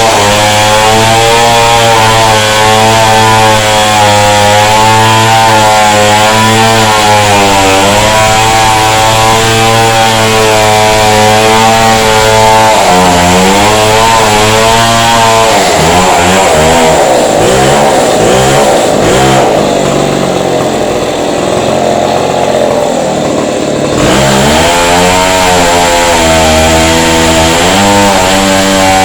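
Chainsaw running at high speed while cutting into a wall, its engine note sagging under load a couple of times and dropping and wavering for several seconds about halfway through, then recovering to a steady high speed.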